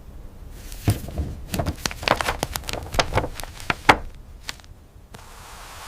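A run of irregular sharp clicks and taps, then a steady hiss from about five seconds in.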